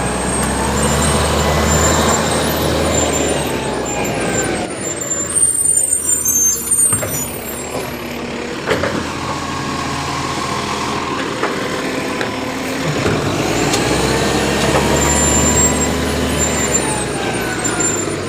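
Garbage truck running, its engine rising and easing off in pitch twice, with thin high-pitched squeals in the quieter stretch between.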